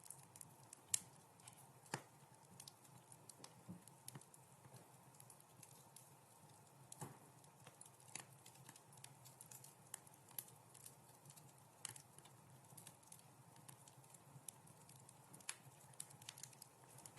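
Wood fire in a fireplace crackling: irregular sharp pops and snaps, the loudest about a second in, over a faint steady low background.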